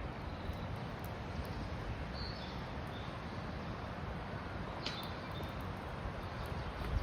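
Steady outdoor hiss, with a few faint, short, high bird chirps and a single light click about five seconds in.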